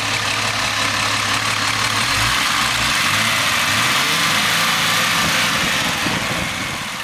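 1978 Mercedes-Benz 280SE's 2.8-litre DOHC inline-six (M110) running at idle with the hood open, a steady hum; the engine note wavers briefly about two seconds in and the sound fades a little near the end. The engine is running smoothly, which the owner takes as the sign of good timing and valves.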